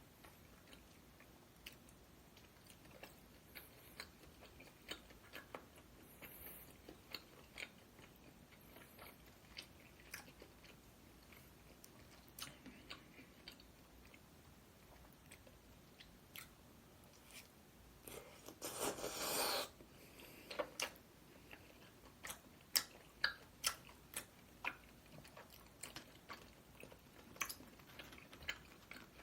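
Close-up eating sounds: chewing with many short crackles and crunches of food. About two-thirds of the way through comes a louder, denser noise lasting a second or two.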